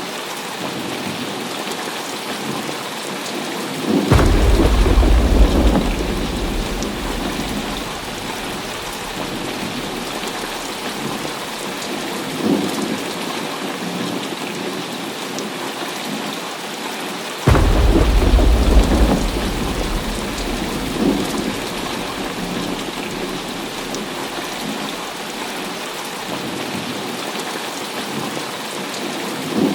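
Steady heavy rain with thunder. Two sudden claps, about four seconds in and again after about seventeen seconds, each rumbling low for a couple of seconds before dying back into the rain.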